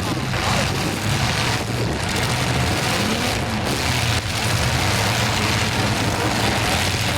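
Demolition derby cars' engines running and revving together, a steady mechanical din with a noisy wash over it.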